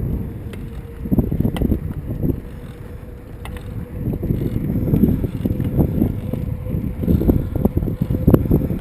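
Wind buffeting the microphone and road rumble while riding a bicycle, with scattered clicks and rattles.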